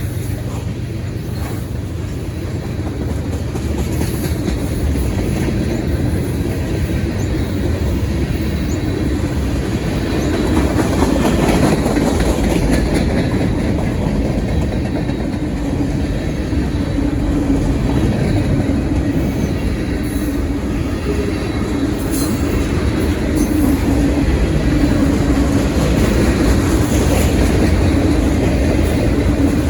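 Freight cars of a long mixed manifest train rolling past, steel wheels clacking over the rail joints over a steady rumble, with some wheel squeal.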